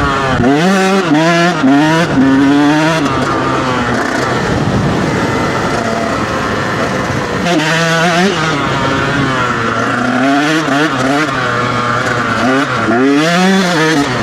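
Dirt bike engine revving up and down repeatedly under throttle, with a steadier stretch in the middle.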